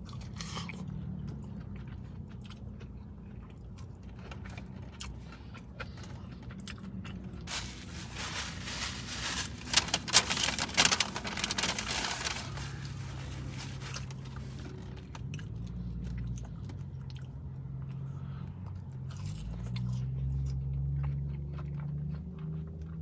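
Close-miked chewing of fried chicken nuggets, with a louder stretch of crunching about a third of the way in, over a steady low hum.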